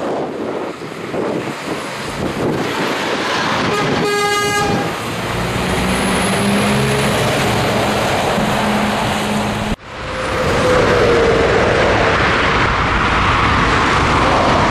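A Scania truck on the move, with steady road and wind noise. A short vehicle horn toot sounds about four seconds in, followed by a steady engine hum. The sound drops out abruptly for a moment near ten seconds, then the road noise returns.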